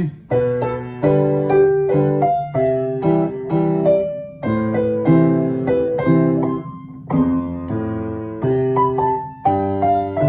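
Solo piano playing a gentle melodic piece in struck chords, about one or two a second, each note fading before the next.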